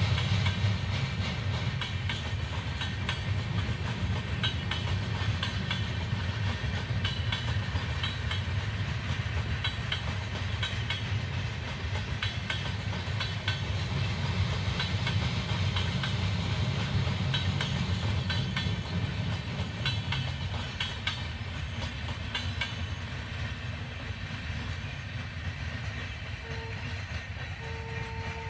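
Indian Railways passenger train's coaches running past: a steady rumble with the wheels clattering over the rail joints, fading over the last few seconds as the final coach goes by.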